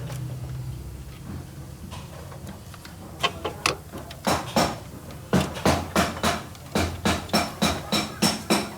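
A hammer striking metal in a quick series of about fifteen sharp, ringing blows, roughly three a second, starting about three seconds in. Before that, a machine motor's low hum dies away in the first second.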